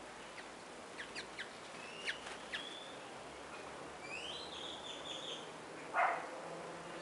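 Birds calling: a few sharp chips in the first half, a squeaky warbling phrase about four seconds in, then a short, loud, harsh call about six seconds in.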